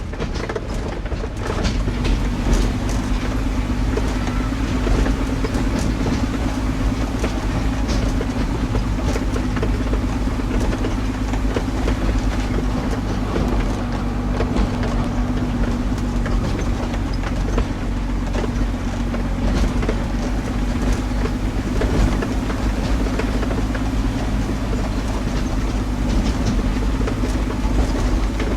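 Heavy truck driving at a steady speed: its engine runs with a constant low drone, under frequent small rattles and knocks from the cab and body.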